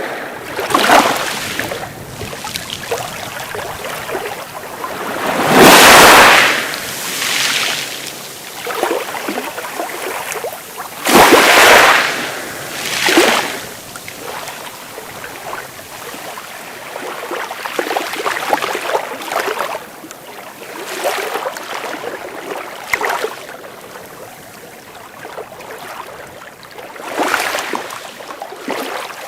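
Sea waves breaking, a rushing surge every few seconds, the loudest two about six and eleven seconds in.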